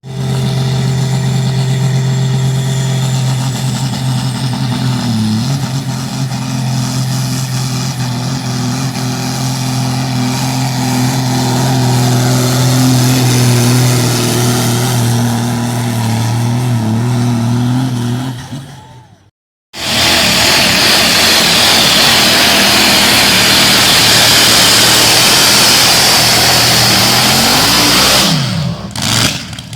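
Competition pulling tractor's engine running flat out under load, a loud, steady drone held for most of the run. After a brief gap a second, louder and rougher run follows, which drops in pitch near the end as it winds down.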